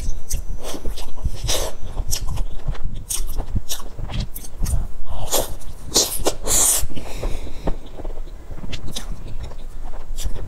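Close-miked eating of soft layered crepe cake: wet chewing and lip smacks coming in an irregular run of short, sharp mouth sounds.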